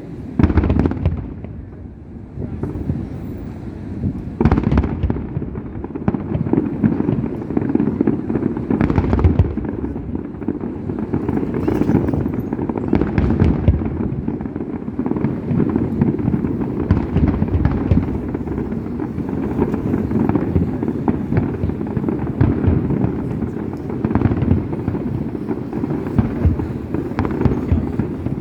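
Fireworks display: near-continuous bangs and crackling, with louder booms every few seconds.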